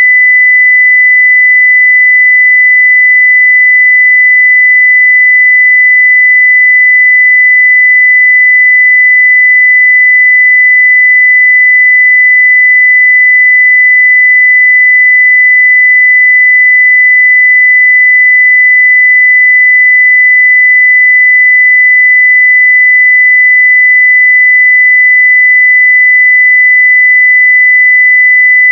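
A 2 kHz sine-wave test tone at full level (0 dB), one pure steady pitch with no change.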